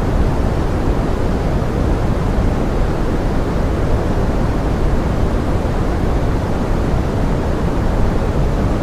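Steady pink noise in the manner of forest rain: an even, unbroken hiss weighted toward the low end, with no single drops or other events standing out.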